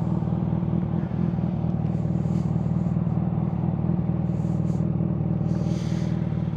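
Kawasaki Ninja ZX-6R 636 inline-four running at a steady idle through a Yoshimura full exhaust, with an even, deep tone and no revving.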